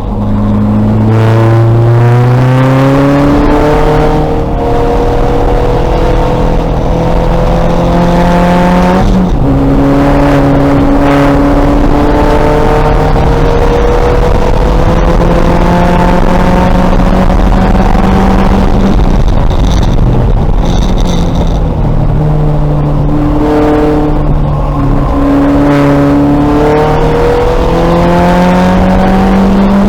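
VW Golf race car's engine at racing speed, its pitch climbing steadily under throttle and dropping sharply several times at gear changes and lifts.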